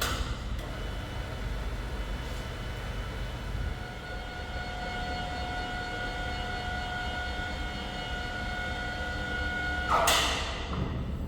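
Franna pick-and-carry crane running as it is moved: a steady low engine rumble with a steady whine over it, and a loud hiss near the end.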